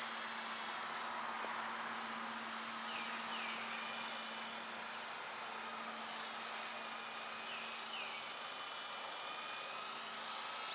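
Blade 120 SR micro electric RC helicopter hovering: a steady buzz from its rotor and a high electric-motor whine that shifts slightly up and down in pitch as it holds position.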